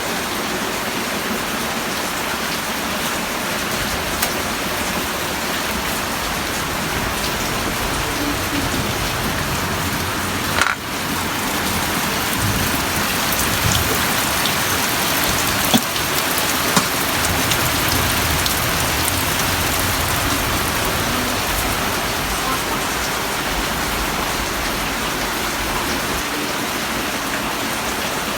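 Heavy rain falling steadily with an even hiss, with a brief dip about eleven seconds in and a couple of sharp ticks a few seconds later.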